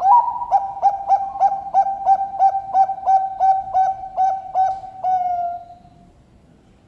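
A deep-voiced Bangkok-strain zebra dove (perkutut) singing. It gives an opening coo, then a run of about a dozen quick, evenly spaced notes, roughly three a second. The song ends in one longer note that slides down and fades.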